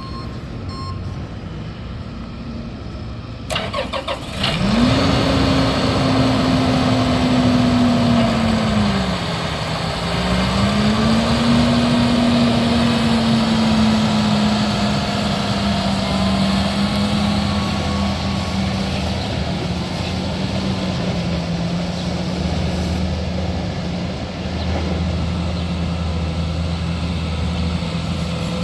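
Case IH Magnum 235 tractor's diesel engine cranking briefly and starting about four seconds in. It runs up fast at first, dips, picks up again, then gradually settles into a steady idle.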